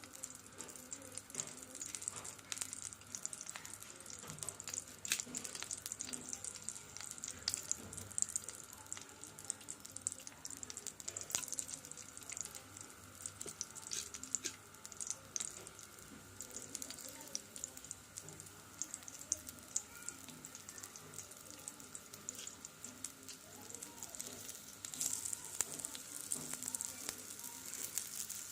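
Potatoes frying in hot oil in a pan, sizzling steadily with scattered sharp crackles.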